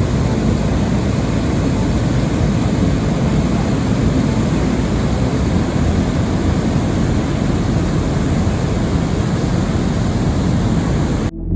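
Steady rushing of a rain-swollen river's high water flowing through a weir.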